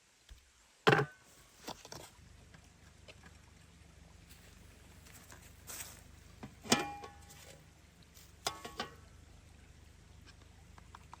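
Cooking gear being handled: a handful of separate knocks and clinks, the loudest about a second in, and later ones around six to seven and eight and a half seconds that ring like struck metal. A faint steady low background sits under them.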